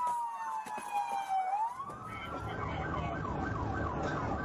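Police car siren: a long wail falling in pitch, which turns upward about a second and a half in and then switches to a fast yelp of about three sweeps a second. A low rumble comes up under the yelp about halfway through.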